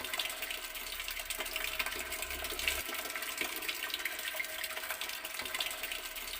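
Water running steadily from a garden tap and splashing, an even rush with a constant spatter of drops.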